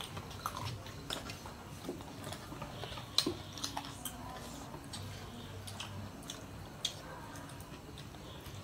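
Close-up chewing and eating with the hands: wet smacking and many short, sharp clicks as chicken and rice are eaten, with the loudest click about three seconds in.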